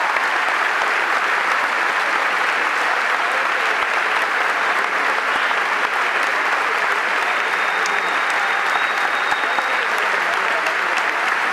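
Concert audience applauding steadily after a performer is introduced.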